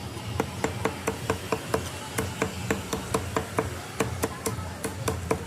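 A meat cleaver chopping chicken on a chopping block in quick, steady strokes, about four a second.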